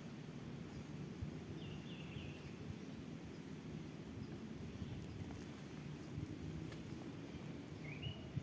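A small bird chirps briefly twice, about two seconds in and again near the end, over a low steady outdoor rumble with a few soft knocks.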